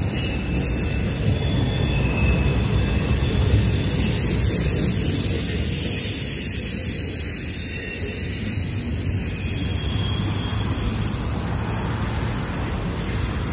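Double-stack intermodal freight train rolling past: a steady low rumble of steel wheels on rail, with thin high squealing tones from the wheels.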